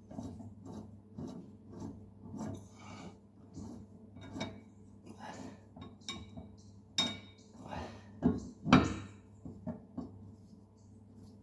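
Blade bolt on a Ventrac Tough Cut mower deck being turned in by hand with a hand tool: a regular series of short metallic scrapes and clicks, roughly two a second, with a few sharper knocks between about seven and nine seconds in.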